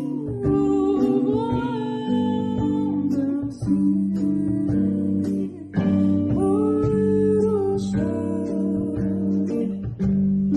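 Music: an acoustic guitar playing a slow arrangement, with held, bending melody notes in phrases that break briefly a few times.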